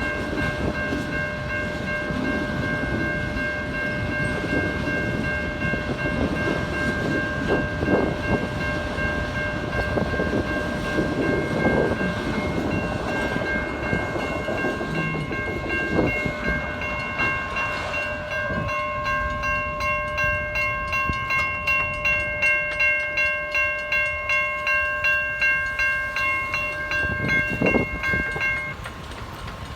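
Freight train of auto rack cars rolling through a grade crossing, a steady rumble with wheel clacks over the rail joints. A crossing bell rings about twice a second over it and stops near the end as the train clears.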